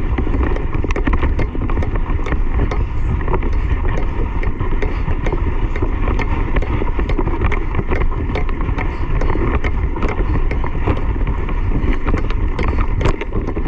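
Steady rushing wind buffeting the microphone over a low rumble of motion, with many small clicks and knocks.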